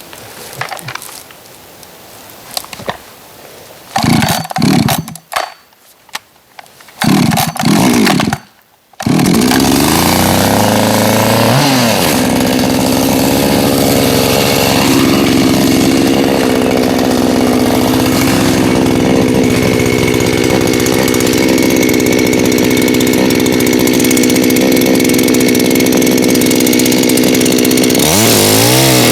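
Chainsaw sounding in two short bursts about 4 and 7 seconds in, then running continuously from about 9 seconds. It rises to a steady high speed and wavers in pitch near the end.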